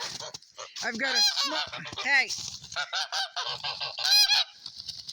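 Domestic geese honking, a rapid run of many short calls one after another.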